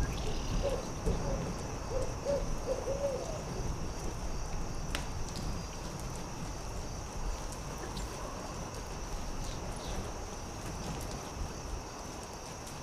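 An owl hooting a quick run of short hoots during the first three seconds, over a crackling campfire with scattered pops and a steady low rumble.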